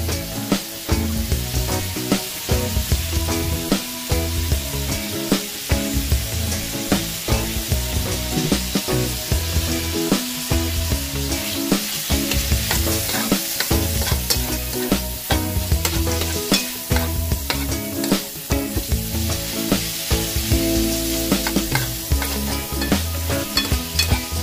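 Food frying in hot oil in a pan, sizzling steadily, while a spatula stirs it with frequent short scrapes and knocks against the pan. Background music plays underneath.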